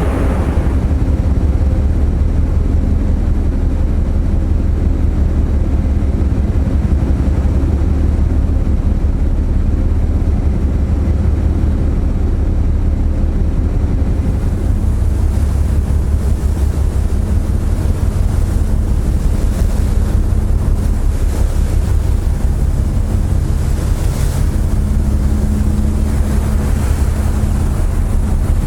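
Steady low drone of a car ferry's engines under way, with wind buffeting the microphone. About halfway through, the hiss of the churning wake and wind grows louder.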